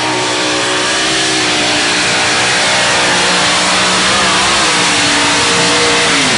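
Mini unlimited pulling tractor's engine running flat out under load during a pull. It sounds loud and steady, and its pitch sags over the last couple of seconds, then falls sharply at the very end as the throttle comes off.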